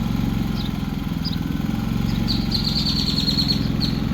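Predator 3500 inverter generator's single-cylinder engine running steadily in eco mode, with a quiet, even hum. Birds chirp over it, with a longer high trill about halfway through.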